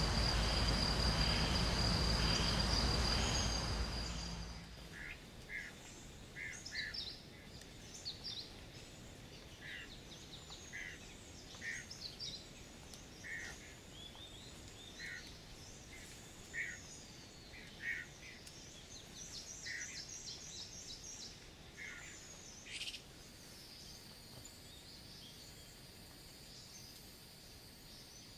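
A loud steady noise with a high, steady insect trill for about the first four seconds, cutting off abruptly. Then come short bird calls, about one a second, with higher thin chirps and a brief fast trill around the middle.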